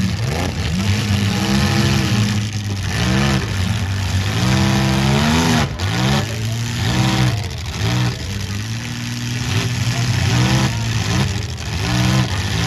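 Demolition derby car engines revving up and down over and over, several at once.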